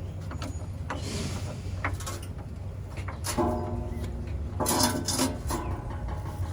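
Scattered knocks, clicks and rubbing of tools and parts being handled during work under a truck, over a steady low hum.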